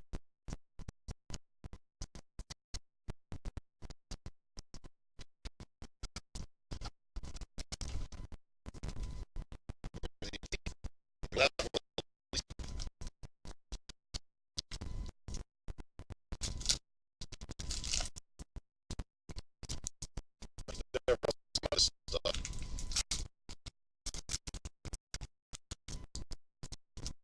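Garbled, choppy audio that cuts in and out many times a second, breaking whatever is being said into stuttering fragments: a faulty recording or stream with constant dropouts.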